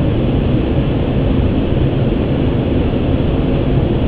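Steady rushing flight-deck noise of an Airbus A350 on final approach: airflow and engine noise heard from inside the cockpit, even and unbroken, heaviest in the low range.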